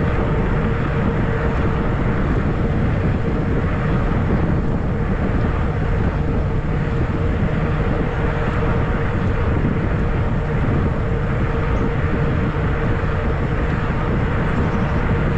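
Wind noise on the camera microphone while riding a fat-tire e-bike, with a steady hum from the moving bike.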